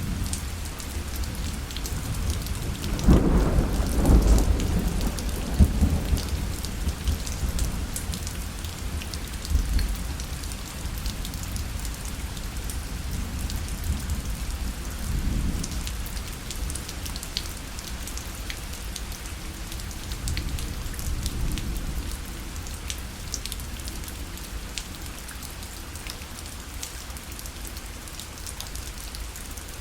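Steady rain falling on a parasol, with single drops ticking sharply on the fabric. About three seconds in a roll of thunder rumbles low for a few seconds and fades. Fainter rumbles follow later.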